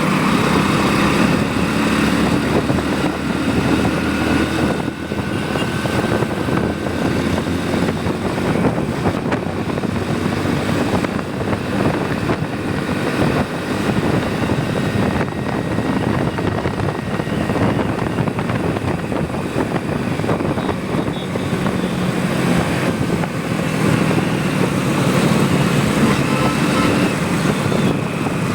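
Motorcycle engine running steadily while riding, with a constant rush of road and wind noise.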